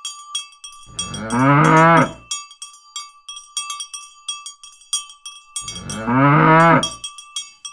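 A cow mooing twice, each moo about a second and a half long, with a cowbell clanking rapidly and ringing throughout.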